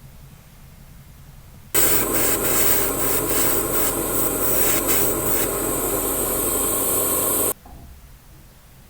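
Spray painting hissing steadily for about six seconds, starting and stopping abruptly.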